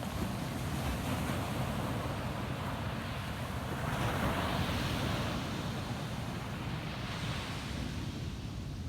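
Ocean surf breaking and washing up on a sandy beach, with one wave swelling and fading about four to five seconds in. A low rumble of wind on the microphone runs underneath.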